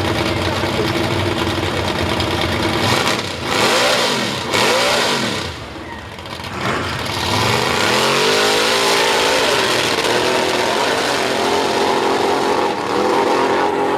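Mud truck engine on open headers, revved hard. It blips up and down twice a few seconds in, then climbs to high revs and holds there, with a brief dip near the end.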